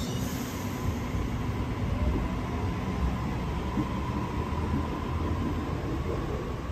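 A double-deck electric suburban train pulls out of the platform, its carriages running past with a steady rumble and a faint steady whine.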